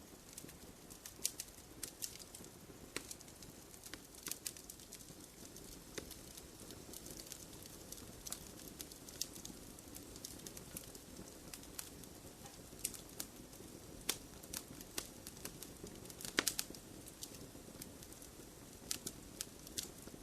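Wood fire in a fireplace crackling: irregular sharp pops and snaps over a faint steady hiss, with the loudest pops about fourteen and sixteen seconds in.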